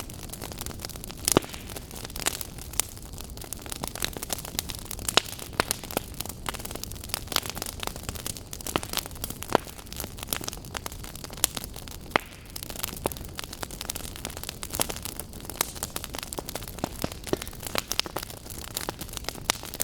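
Fire crackling in a fireplace: irregular sharp pops and snaps, several a second with a few louder ones, over a steady low rush of flame.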